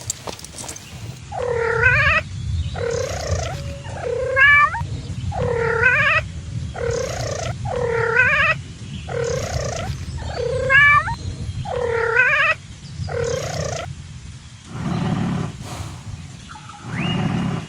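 Domestic cat meowing repeatedly, a run of short calls about one a second, over a steady low purr. The calls stop a few seconds before the end.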